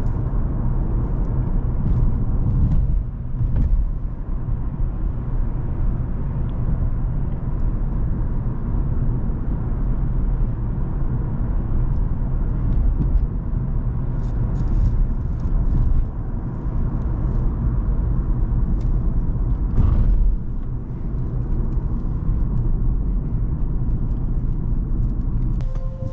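Cadillac CTS 3.6 twin-turbo V6 running under way with tyre and road noise: a steady low drone that briefly drops in loudness about 4, 16 and 20 seconds in, with a short louder surge just before the drop at 20 seconds.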